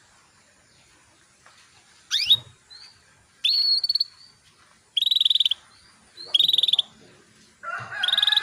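Female canary calling: a rising whistled note about two seconds in, then three short rapid trills at an even high pitch, about a second apart, and near the end a longer call with several lower tones.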